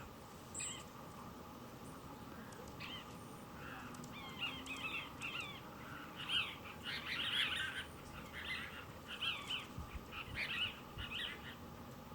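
Cassin's kingbird calling: a string of short chattering calls in quick bursts, starting a few seconds in and going on until near the end.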